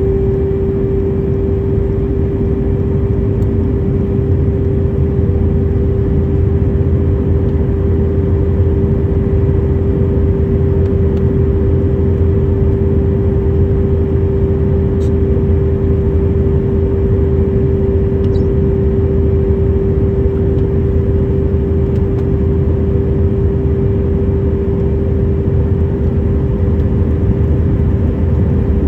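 Steady engine and cabin noise aboard a Boeing 737 airliner: an even low rumble with a strong, unchanging drone.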